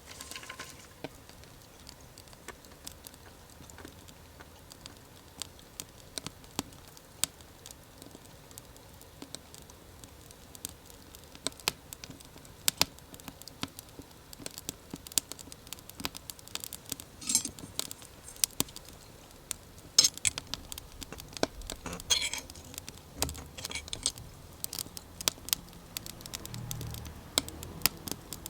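Small wood fire crackling, with irregular sharp pops and snaps throughout.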